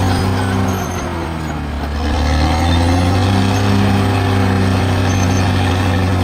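Bulldozer's diesel engine running hard, its note sagging about a second in and picking back up a second or so later.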